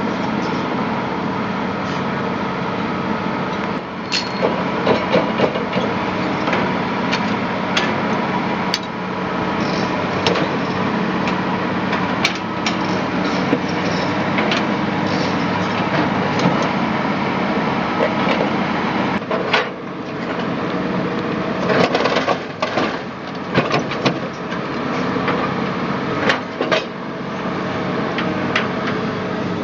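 An engine running steadily, with scattered sharp knocks and clanks of work on an excavator's track, coming thickest in the last third.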